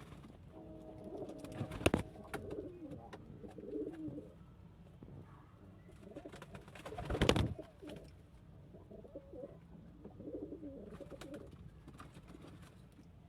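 Domestic pigeons cooing in low, repeated phrases, in three bouts. Two loud sharp knocks stand out, about two seconds in and again a little past the middle.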